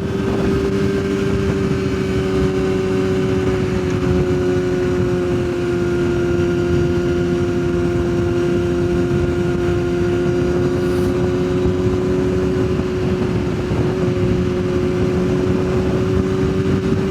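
Yamaha sportbike engine running at a steady cruise: one even drone that sags slightly in pitch through the middle and comes back up near the end.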